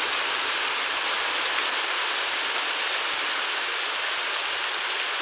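Rain falling steadily on tree foliage and the ground: an even hiss that does not let up.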